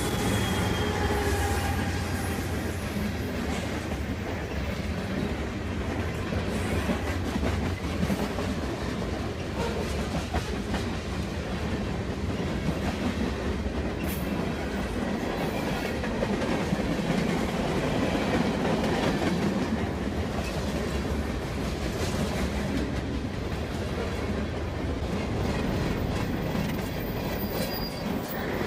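Long freight train rolling past: a steady rumble of wagons on the rails.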